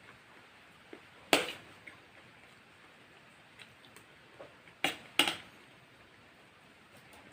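Close-miked eating sounds from a fried-chicken meal: a few sharp clicks and crunches, one about a second in and two close together near the five-second mark, with fainter ticks between over quiet room tone.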